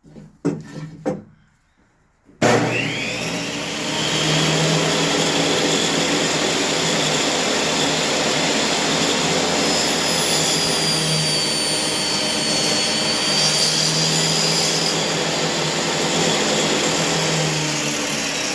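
A few knocks, then a woodworking power tool switches on with a sudden start about two and a half seconds in and runs steadily. It is being used to trim the edges of boards square, and a higher whine comes and goes in the middle.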